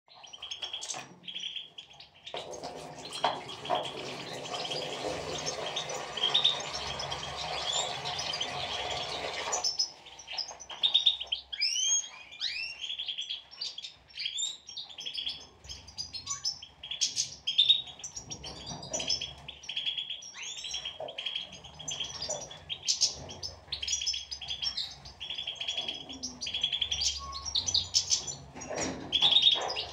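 European goldfinches twittering: many quick, high chirps and trills, with fast up-and-down glides. From about two seconds in until about ten seconds in, a steady rushing noise sits under the calls and then cuts off suddenly.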